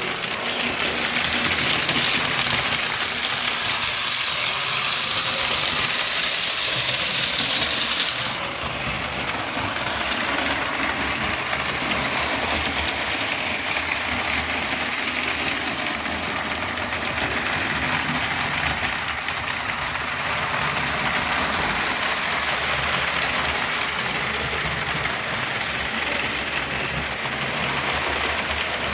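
Model train running on the layout track: a steady rattle of wheels on rails with a high motor whine, whose pitch shifts about eight seconds in.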